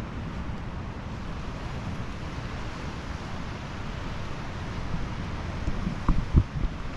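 Pacific Ocean surf washing steadily on the beach, with wind buffeting the microphone in low rumbles that gust up in a few strong thumps near the end.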